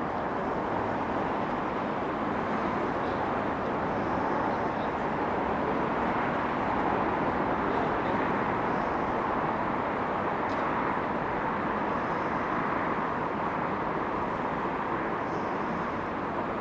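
A train running through the station: a steady rush of wheel and air noise that swells slightly about eight seconds in.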